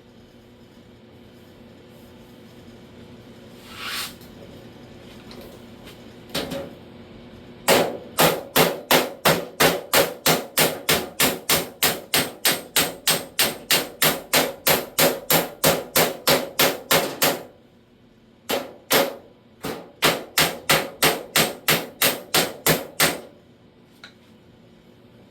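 Body hammer striking the edge of a steel door skin against a flat dolly, folding the lower door-skin hem: a few single blows, then a fast even run of sharp metal strikes, about three a second for some ten seconds, a short pause and two blows, then another run of strikes.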